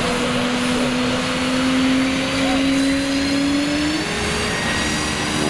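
Aircraft engines droning overhead: a steady rush with a low hum that slowly rises in pitch, shifting about four seconds in.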